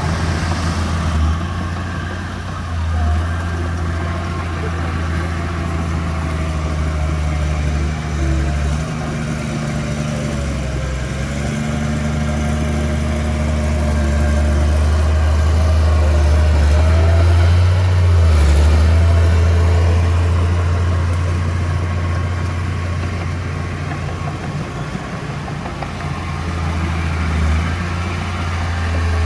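Diesel engine of heavy earthmoving equipment running steadily with a low drone, growing louder toward the middle and easing off again.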